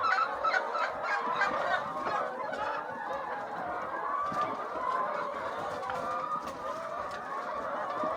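A flock of laying hens clucking and calling over one another.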